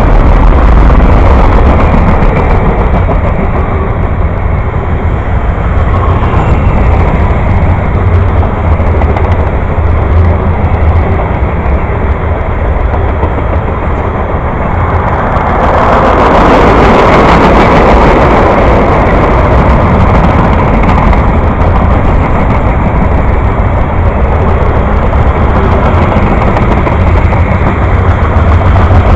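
Freight train of boxcars and covered hopper cars rolling past close by: a steady rumble of wheels on the rails, louder for a few seconds just past the middle.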